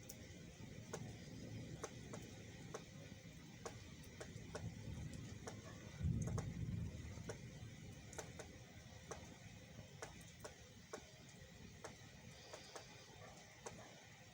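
Thunder rumbling low, swelling suddenly about six seconds in and then slowly dying away, while raindrops tick irregularly on a nearby surface.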